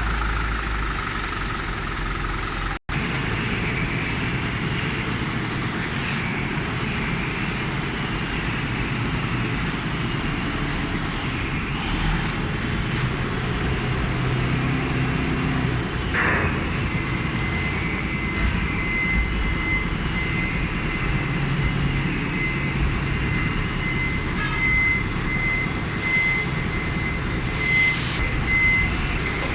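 A vehicle engine running steadily, with a thin, steady high-pitched whine coming in a little past the halfway point.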